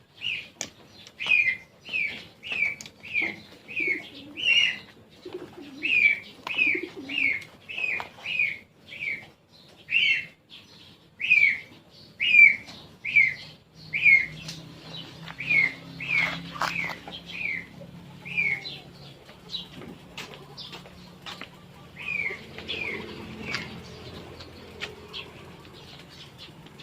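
A bird calling over and over, each call a short falling note repeated about twice a second. The calls stop about eighteen seconds in and return briefly a few seconds later.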